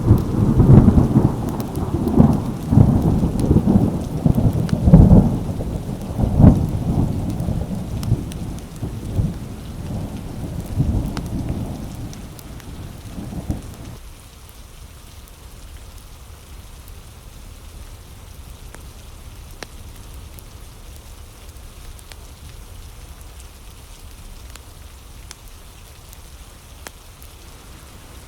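A long thunderclap rolling and rumbling loudly with repeated cracks for the first dozen seconds, then fading away about fourteen seconds in, leaving steady rain.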